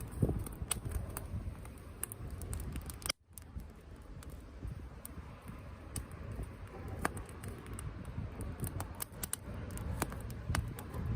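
Wood campfire crackling and popping in irregular sharp clicks over a low rumble, with a brief dropout about three seconds in.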